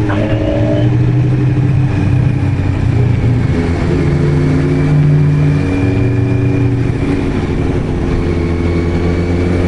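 Kawasaki Z900RS inline-four with a K-Factory titanium full exhaust running on the road at a fairly steady engine speed, its note drifting only slightly in pitch, over wind rush on the helmet microphone.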